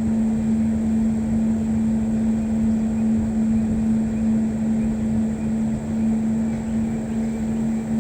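Steady low engine-like drone with one constant humming tone, unchanging throughout.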